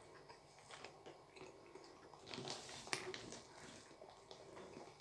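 Faint biting and chewing on soft curry-filled bread buns: wet mouth sounds with scattered small clicks, busier a little past two seconds in, with one sharper click at about three seconds.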